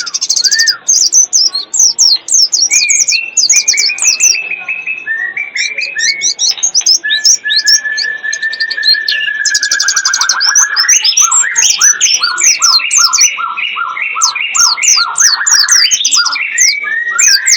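Bird-lure recording of songbirds calling: a dense layer of very high, rapid chirping with clear lower whistles over it, including one long held whistle and then a quick two-note phrase repeated about twice a second for several seconds.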